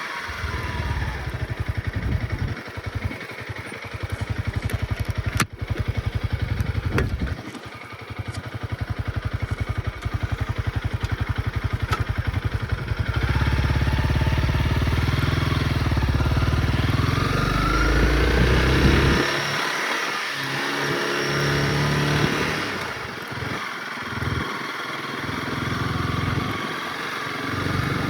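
Honda CRF motorcycle engine running under way, its pitch rising and falling with the throttle. It gets louder about halfway through.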